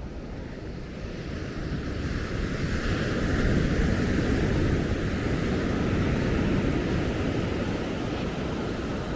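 Ocean surf: a wave swells over a couple of seconds, breaks, then slowly washes out and fades, over a steady low rumble of wind on the microphone.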